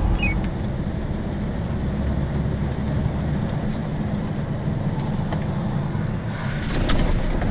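Steady road and engine noise of a moving car heard from inside the cabin, a low rumble with no speech. A few faint clicks come near the end.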